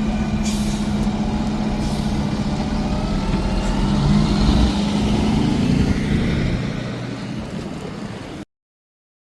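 Fire truck's diesel engine running and pulling away, its note rising and getting louder partway through, with a couple of short hisses in the first two seconds. The sound cuts off suddenly near the end.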